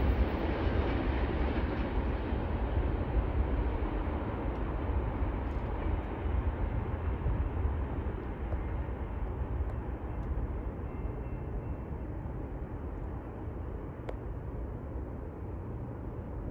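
A passing train's rolling rumble, fading slowly as its last car moves away.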